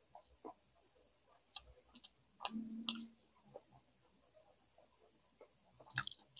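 Close-miked eating: scattered soft mouth clicks and smacks of chewing, with a louder burst and a brief low hum about two and a half seconds in and another cluster of sharp clicks near the end.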